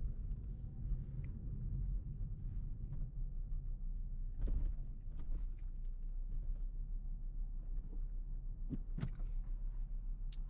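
Volvo C70 engine idling, heard from inside the cabin as a steady low hum, with a few soft clicks and knocks about four and a half seconds in and again near the end.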